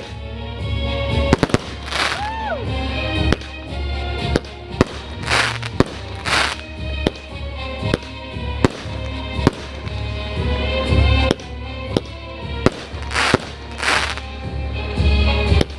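Aerial fireworks going off in quick succession: many sharp bangs, with several longer, brighter bursts and a short whistle near two seconds in. Music with a steady bass plays underneath.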